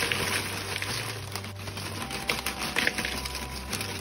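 Potato chips poured and tumbling into a bowl: a dry, clicky crackle of many small pieces, thickest in the second half.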